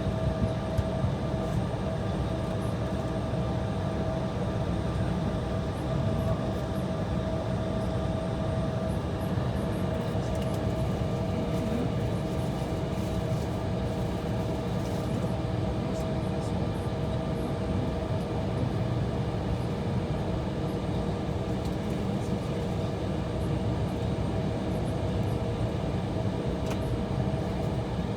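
Steady cabin drone inside an Embraer E175 on the taxiway: its jet engines running at idle, with a low rumble and a few constant humming tones.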